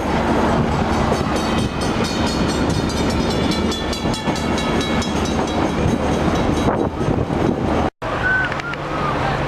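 Passenger train running on the rails, a steady rumble with a low hum and a rapid run of rail clicks. It cuts off abruptly about eight seconds in, giving way to a quieter background.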